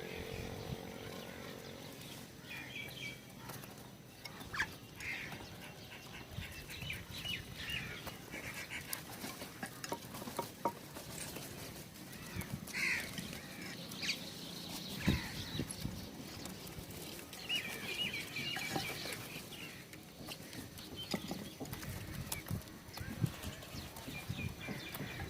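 Birds at a feeder calling in short bursts of chirps and clucks, with scattered sharp taps and knocks.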